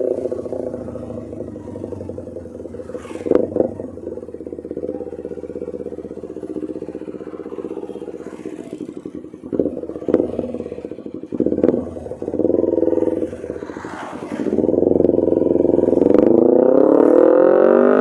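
Kawasaki Ninja 250R's carbureted parallel-twin engine through an Austin Racing aftermarket exhaust, heard on the move. The revs drop off at first and stay low with a few short throttle blips, then climb steadily over the last few seconds as the bike accelerates.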